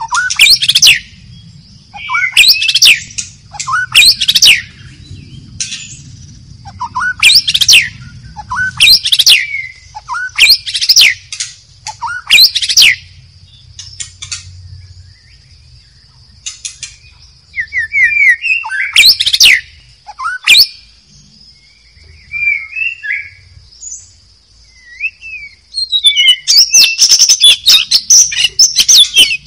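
White-rumped shama (murai batu) singing: loud, sharp sweeping phrases in clusters every second or two, a quieter stretch in the middle, then a fast run of rapid notes near the end. A steady high-pitched hum runs underneath.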